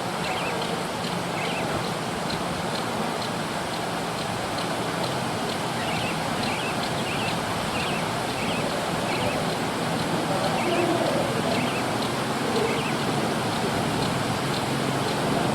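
A forest bird giving a steady series of short, high chirps, about two a second, over a loud steady rushing hiss.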